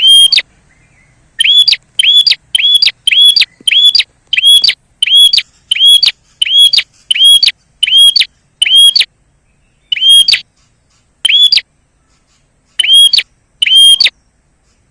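Prenjak, a small Indonesian warbler, calling loudly in a fast run of short, sharp chirps, each note rising and falling, about one and a half a second. After about nine seconds the run thins to a few scattered single chirps.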